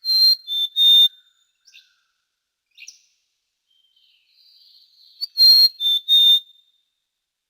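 Common quail (Coturnix coturnix) giving its three-note 'wet-my-lips' song twice: each phrase is three quick, sharp, high notes in about a second, the first at the start and the second about five seconds later. Faint, short bird notes come in the gap between the two phrases.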